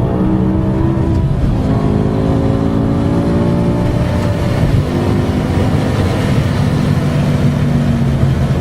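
Sports car engine pulling under acceleration, its pitch climbing slowly between gear changes, with a drop in revs near the start and another about five seconds in.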